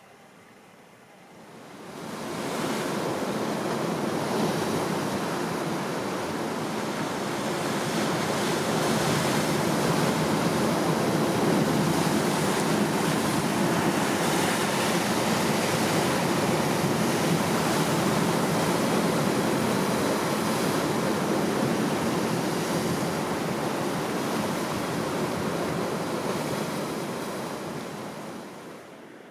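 Steady rush of water, an even roar without distinct surges, fading in about two seconds in and fading out near the end.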